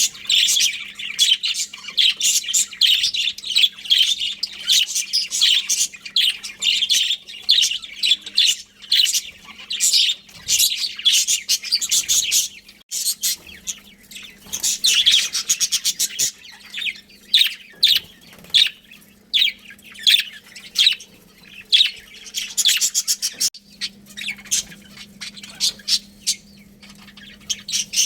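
A flock of budgerigars chattering, with many quick high chirps overlapping in a constant busy stream. A faint steady hum runs underneath.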